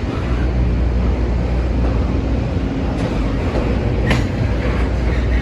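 Norfolk Southern intermodal freight train rolling past: a steady heavy rumble of wheels on rail, with a sharp metallic clank about four seconds in.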